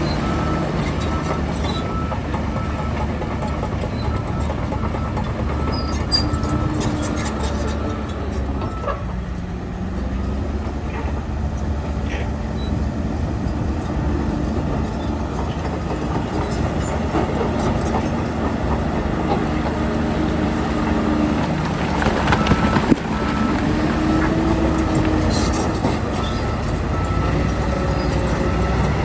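Heavy diesel earthmoving machinery, bulldozer and dump truck engines, running with a steady low rumble. A repeated high beeping sounds for a few seconds near the start and again about three-quarters of the way through, and there is one sharp knock just before that.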